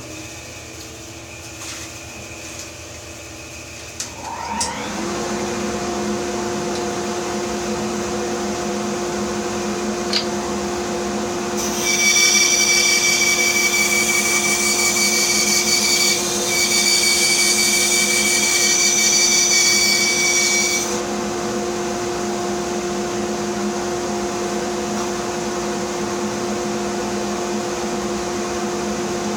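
A bandsaw switched on about four and a half seconds in, its motor rising briefly to speed and then running with a steady hum. From about twelve to twenty-one seconds the blade cuts through a wooden block, adding a louder, high whine, after which the saw runs free again.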